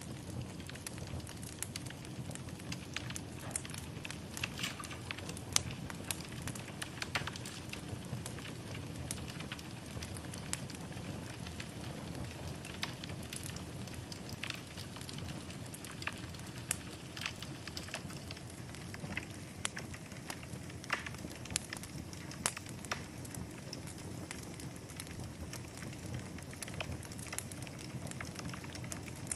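Wood fire burning in a fireplace: a steady low rush of flames with irregular sharp crackles and pops scattered throughout, several a second.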